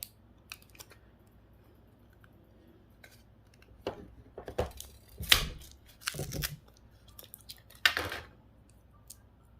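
Tool prying and scraping at a glued-in part inside a GPS unit, with irregular clicks and scrapes. The strokes bunch up a little past halfway and again near the end.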